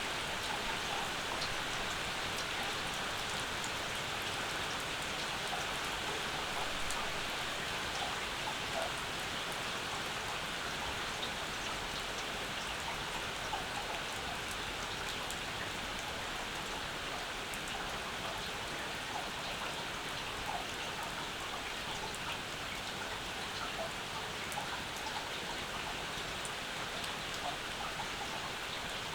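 Steady summer rain falling, an even hiss with scattered single drops tapping close by.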